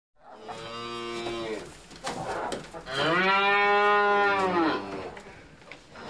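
Cattle mooing twice: a shorter, quieter moo, then a longer, louder one whose pitch rises and falls.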